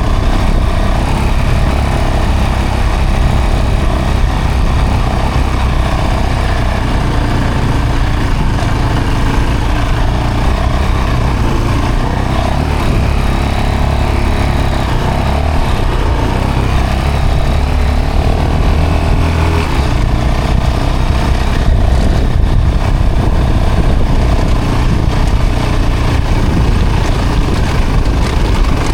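A vehicle engine running steadily with a strong low rumble, getting a little louder about three-quarters of the way through.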